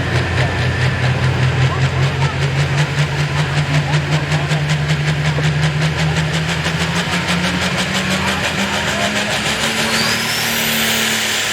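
Turbocharged diesel engine of a light pro stock pulling tractor running loud, its pitch climbing gradually with a fast even pulse, and a rising high whine near the end.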